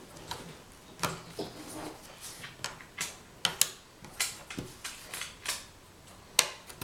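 Jigsaw puzzle pieces being handled and pressed into place: a dozen or so irregular light clicks and taps.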